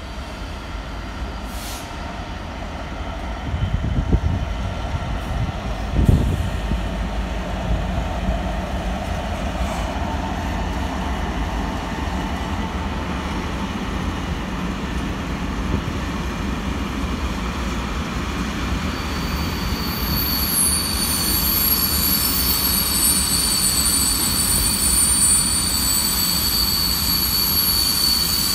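Diesel freight locomotive and a train of hopper wagons passing, with a steady low rumble of engine and wheels. From about twenty seconds in a high, steady squeal from the wagon wheels joins it and carries on to the end.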